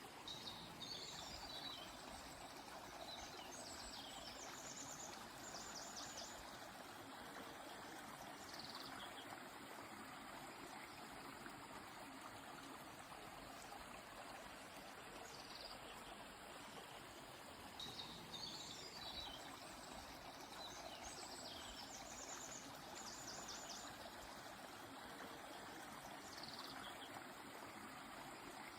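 A faint, steady flowing stream, with a songbird's short chirps and quick trills coming and going above it. The same run of bird phrases comes round again about halfway through.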